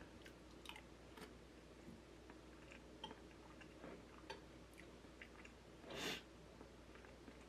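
Close-up chewing and small mouth clicks of someone eating sticky rice, with one brief louder noisy sound about six seconds in. A faint steady low hum from a running furnace sits underneath.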